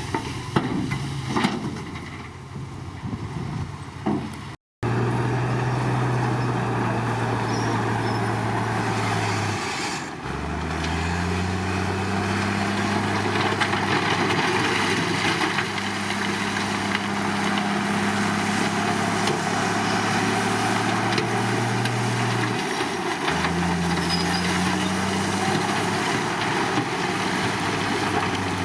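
Komatsu D53 bulldozer's diesel engine running, with a few knocks in the first seconds, a brief dropout about five seconds in, then a steady drone whose pitch steps up and down several times as the engine is worked harder and eased off.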